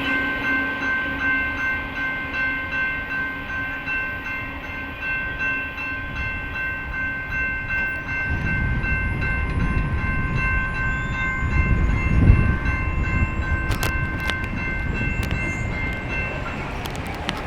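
BNSF freight train rolling past, its wheels clacking rhythmically over the rail joints, with a steady high ringing tone and a low rumble that grows louder about halfway through. The sound cuts off suddenly at the end.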